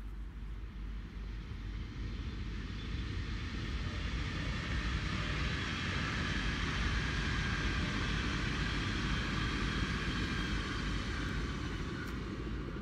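Electric passenger train passing at speed on the main line: a steady rush of wheel and rail noise with a faint high whine. It builds from the start, is loudest in the middle and eases off near the end as the train moves away.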